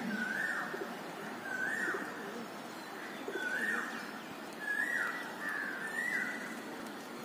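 A bird calling outdoors: about six short calls, each starting on a level note and falling away, spaced a second or so apart over a steady background hiss.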